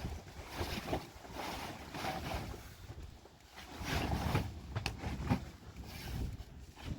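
Strong wind gusting against the microphone in irregular surges, a low rumble with a hiss over it.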